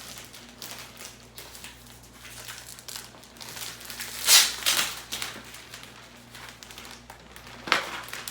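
Plastic wrapping crinkling and rustling as it is pulled off a rolled shag rug, with a louder rustle about four seconds in and another near the end.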